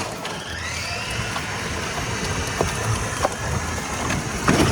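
A vehicle engine running steadily, with a rising whine about half a second in and a louder burst near the end.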